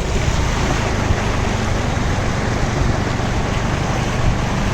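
Steady rushing noise of a motorbike ride, with wind over the microphone and a low engine hum underneath.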